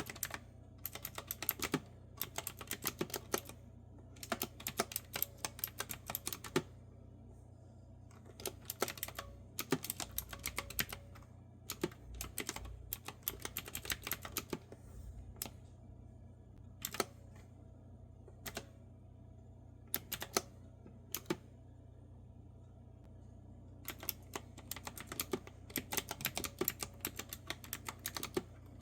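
Typing on a clicky retro-style keyboard with round keys: runs of fast keystrokes broken by short pauses. Through the middle stretch there are only a few single clicks, and then steady typing resumes near the end.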